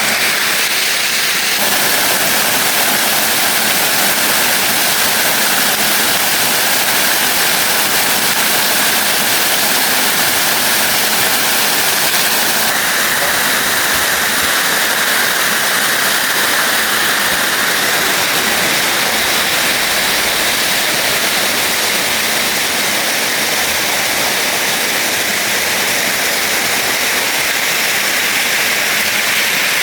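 Waterfall rushing: a loud, steady hiss of falling water close to the microphone.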